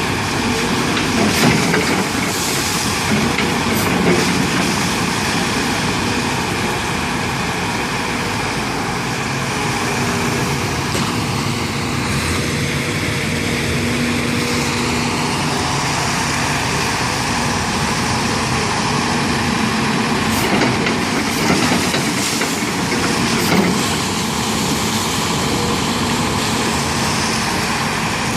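Heavy diesel engine of a construction machine running steadily, with a few brief louder knocks.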